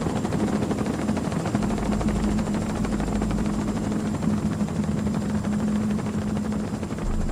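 Helicopter engine and rotor running steadily, heard from inside the cabin as an even drone with a steady low hum.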